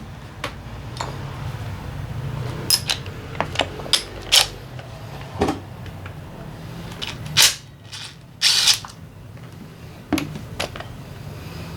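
Metal hand tools and engine parts clinking and knocking irregularly during the disassembly of a Honda PCX 125 scooter engine, with two short rasping bursts about seven and a half and eight and a half seconds in.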